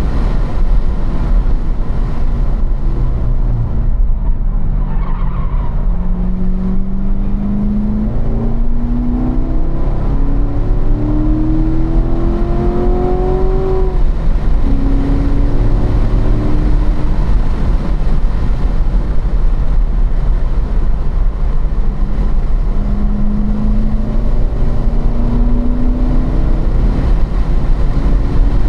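2015 Corvette Stingray Z51's 6.2-litre LT1 V8 pulling in fourth gear at track speed, heard from inside the cabin over a heavy road and wind rumble. The engine note climbs steadily for about ten seconds and drops off suddenly about halfway through. It climbs again near the end.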